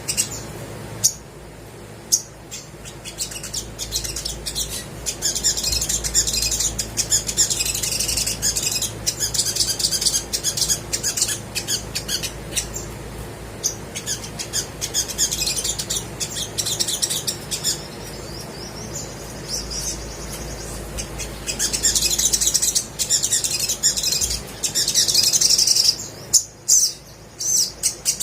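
Olive-backed sunbird singing actively: rapid high-pitched chirps and twittering trills, with short pauses about a second in and again near the end.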